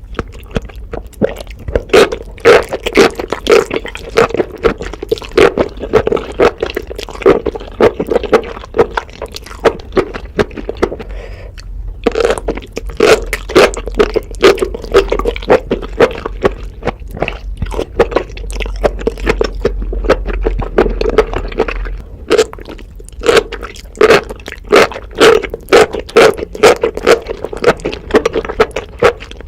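Close-miked chewing of spicy enoki mushrooms: a dense, steady run of wet mouth clicks and smacks, with a brief lull about twelve seconds in.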